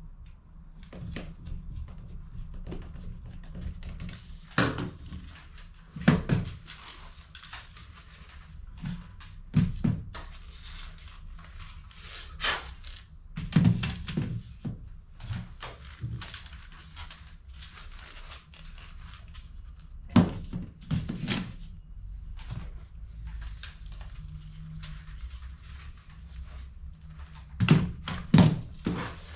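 Plastic laser toner cartridge parts being handled on a workbench: irregular clicks and taps with several sharper knocks, over a low steady hum.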